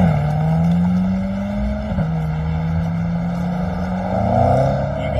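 Chevrolet Corvette C8's V8 engine accelerating hard through the gears. The pitch climbs, drops sharply at upshifts at the start and about two seconds in, then rises again near the end.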